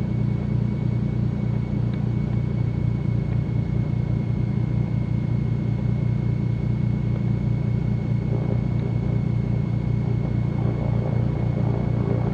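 Twin piston engines of a Cessna 310Q running at low taxi power, a steady low rumble with a faint constant high tone above it.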